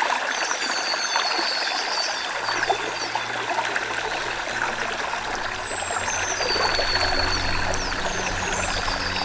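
Stream water trickling and splashing over stones in a steady rush, with small birds chirping in short high calls above it. A low steady hum of background music comes in about two seconds in.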